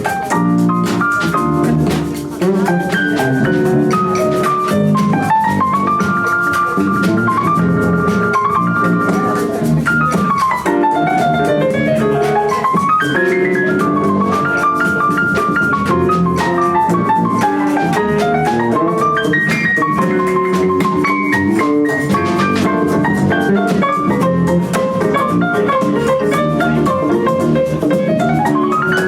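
Live rock band playing an instrumental passage: a lead instrument runs fast strings of notes up and down in repeated sweeps over a driving drum beat.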